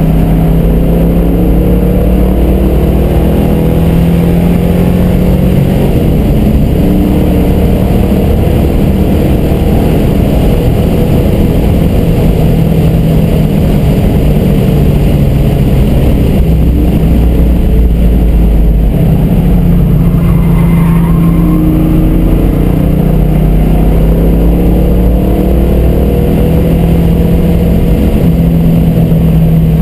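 1967 Shelby GT350's 289 V8 running hard on track, heard from inside the cabin, its pitch rising and falling as the car accelerates and slows through the corners, with a change in the engine note about two-thirds of the way through.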